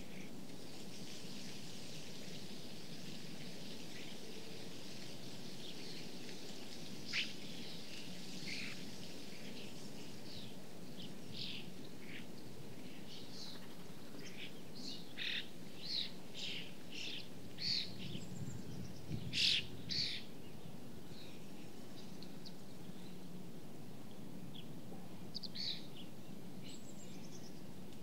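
Birds calling with short, sharp high chirps, scattered at first and coming thick and fast about two-thirds of the way through, over a steady low background noise.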